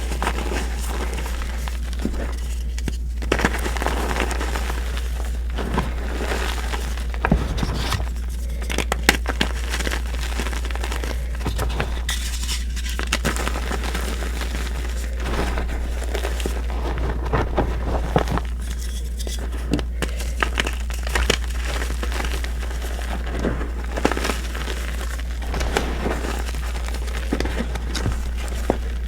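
Reformed blocks of gym chalk being crushed and crumbled: gritty crunching and crackling that comes and goes, with sharper cracks now and then, over a steady low hum.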